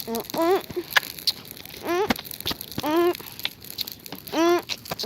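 A campfire of paper and fir branches crackling with many sharp pops. Several short pitched calls that rise and fall cut in over it.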